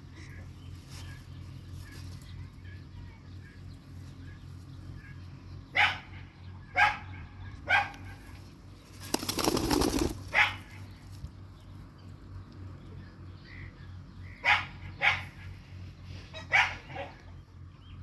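Ringneck parrots squawking in about seven short, harsh, loud calls, in clusters through the middle and latter part, with a second-long flurry of wing flapping shortly before the middle. Faint chirps sit between the calls.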